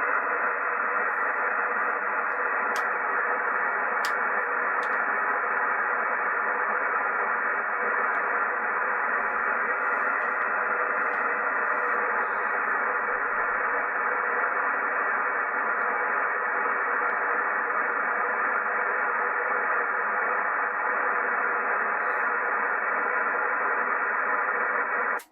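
Steady hiss of HF band noise from a Yaesu FTDX9000D transceiver, tuned to a frequency with no voice on it, cutting off abruptly at the end.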